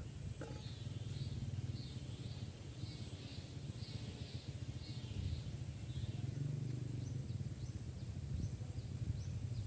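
Young owl giving repeated rasping begging hisses, about two a second, while it is fed crickets. Over a steady low hum, with a few short high chirps near the end.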